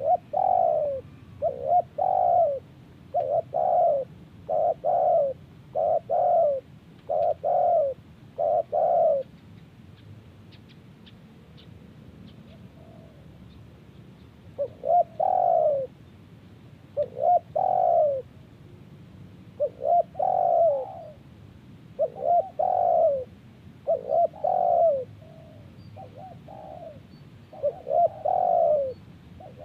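Spotted dove (tekukur) cooing: a run of repeated coos, about one every second, breaks off for about five seconds midway, then the cooing starts again.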